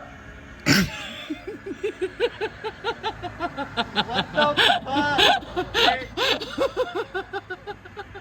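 A person laughing: a long run of quick, high-pitched giggles, about four a second.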